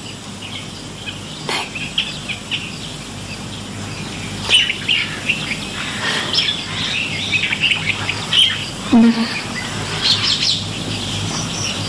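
Small birds chirping repeatedly in the background, with a brief, short voice sound about nine seconds in.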